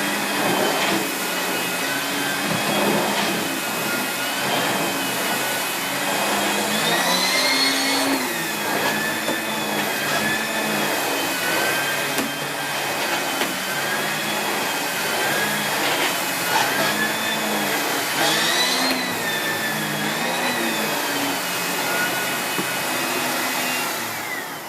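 Miele S8730 (C3 Complete) cylinder vacuum cleaner running as it is pushed back and forth over the floor, its motor whine rising and falling with each stroke. Near the end the motor is switched off and winds down.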